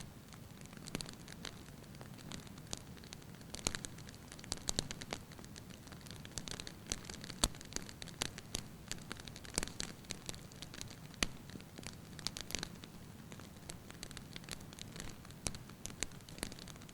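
Burning wood fire crackling: irregular sharp pops and snaps from the logs over a soft low rumble of the flames.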